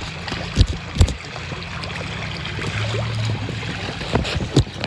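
Wind on the microphone and water around a canoe, with a few sudden low knocks, two about a second in and two near the end.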